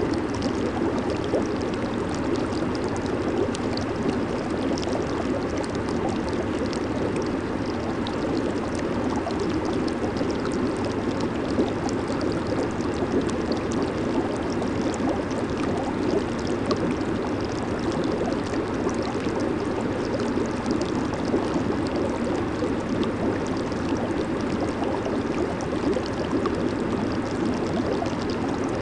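Jacuzzi running: water churning and bubbling under the jets, a steady bubbling rush with fine fizzing crackle that doesn't change.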